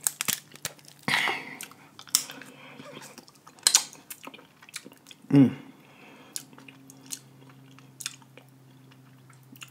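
Close-miked chewing and eating of snow crab and seafood boil: wet mouth smacks and clicks scattered throughout, with a louder short sound about halfway and a faint low steady hum in the second half.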